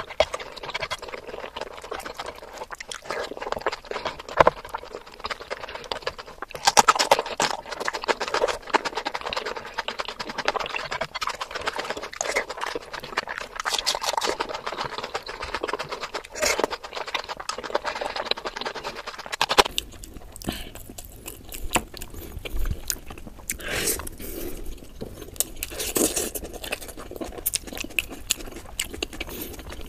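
Close-miked eating sounds: wet chewing, smacking and crunching of a mouthful of chicken biryani and curry. About two-thirds of the way through the sound turns sparser, with a low rumble underneath.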